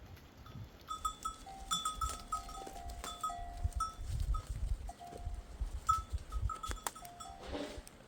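Bells on a grazing flock of sheep clinking irregularly at a few fixed pitches as the animals move, with a single bleat near the end.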